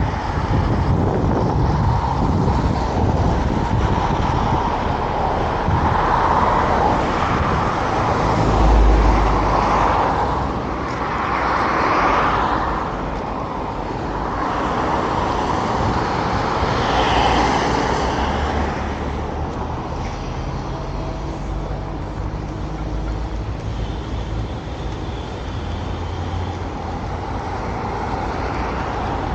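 Street traffic: cars passing one after another, each swelling and fading over a steady road hum.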